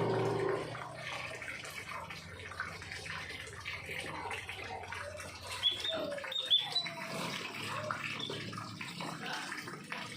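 Small birds chirping and twittering in a busy run of short calls, with a few clearer high chirps about six seconds in.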